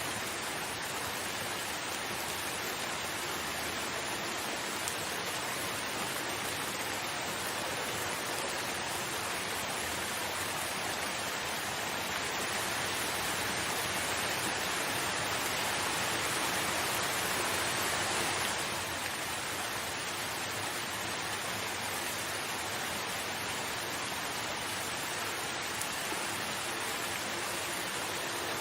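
Steady rain, an even hiss. It grows a little louder through the middle and drops back suddenly about two-thirds of the way through.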